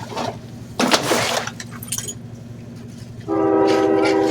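Garbage truck working on its route: the engine runs steadily while a crash of trash, with glass in it, goes into the hopper about a second in. Near the end a loud, steady horn-like tone starts and holds.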